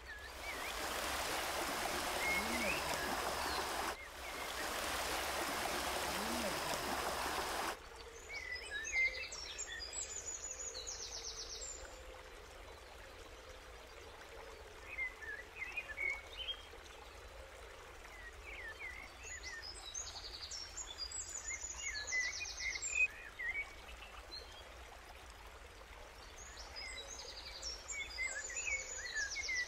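A steady rushing noise for the first seven or eight seconds, broken briefly about four seconds in. Then birds calling outdoors: clusters of high chirps and fast trills return every eight to nine seconds over a quiet background.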